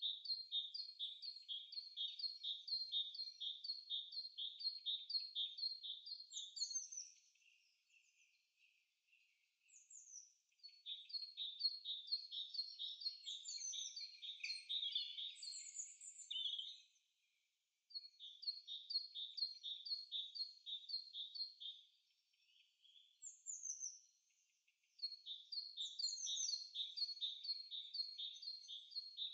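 Faint birdsong: rapid runs of high chirping notes, about three a second, in phrases of several seconds broken by short pauses.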